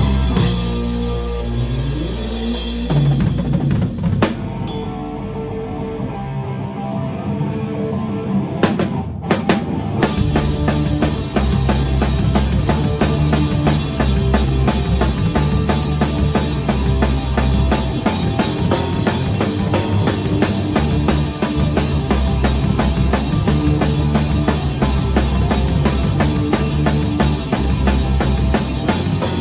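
Live rock band playing. After a sparser passage with a few single drum hits, the drum kit and full band come in about ten seconds in and play on with a steady beat.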